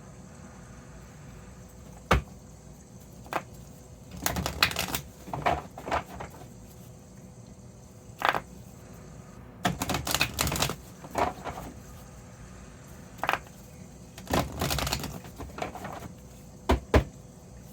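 Tarot cards being handled and shuffled: three stretches of rapid card clatter, with single sharp taps of cards on a surface between them.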